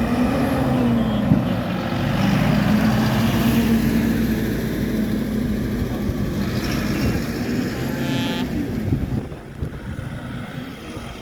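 Tractor engines running steadily as vehicles pass, with a sharp click a little over a second in and a brief higher-pitched tone about eight seconds in. The engine sound fades somewhat near the end.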